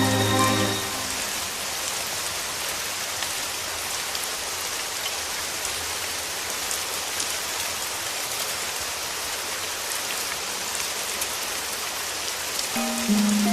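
Steady rain falling, with fine raindrop ticks scattered through it. Soft background music fades out in the first second and comes back near the end.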